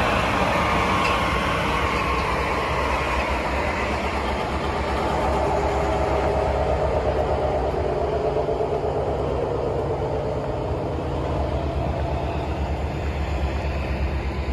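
An Amtrak train going by: steady rail and engine noise with a low hum underneath, and faint tones that slowly fall in pitch midway.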